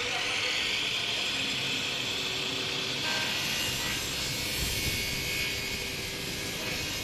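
Dekton 355 mm aluminium cutting saw running and cutting Xinfa aluminium profile, a steady high-pitched whine and grinding noise.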